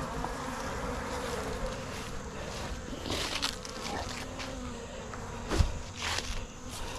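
Honeybees buzzing in a cloud around an open, defensive hive: a steady, wavering drone. A few knocks and rustles of hive handling sound over it, the sharpest about five and a half seconds in.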